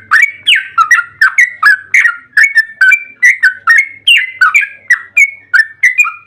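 Yellow-vented bulbul (trucukan) singing a long, fast, unbroken run of short bubbly notes, about three a second, each dipping and rising in pitch: the 'ropel' song used as a lure to make other trucuk birds answer.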